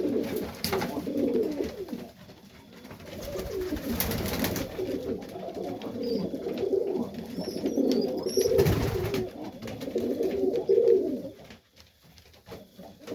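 Domestic pigeons cooing steadily in a loft, with a few sharp knocks or rustles among them. The cooing dips briefly near the end.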